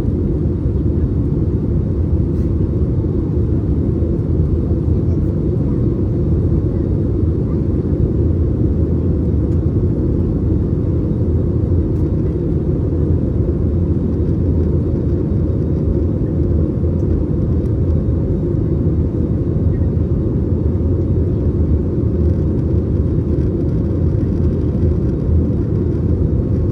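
Steady low drone of engines and airflow heard inside the passenger cabin of an Airbus A321neo in flight, unchanging throughout.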